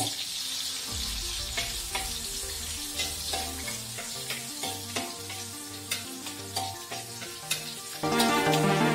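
Shallots sizzling as they fry in hot oil in a wok, stirred with a spatula that clicks against the pan, under soft background music that grows louder about eight seconds in.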